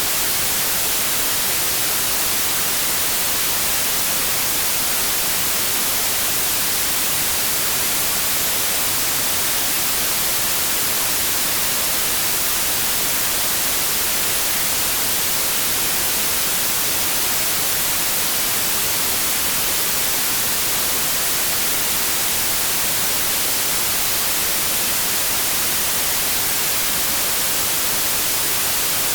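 Steady, unbroken white noise: an even static hiss across the whole range, with no changes or events.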